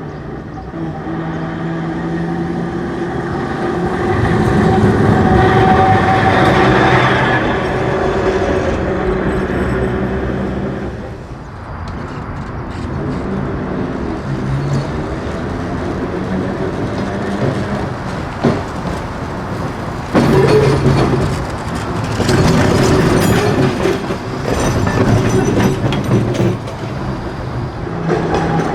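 Perley Thomas streetcar running on its rails: a steady motor hum at several pitches, with wheels rattling and clacking over the track. It swells about four to eight seconds in, eases off briefly, then rattles more busily in the last third.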